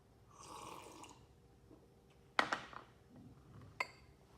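A person slurping beer: a short sucking hiss lasting about a second. A sharp click follows past the middle, the loudest sound, and a smaller click comes near the end.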